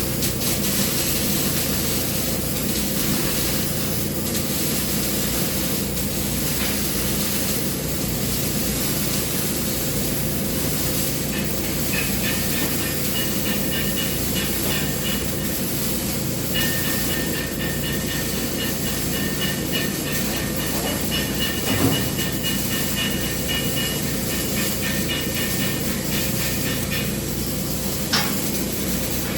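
TIG welding arc on carbon steel pipe: a steady hiss over an even machine hum, with a faint high, pulsing buzz through the middle part and two short clicks near the end.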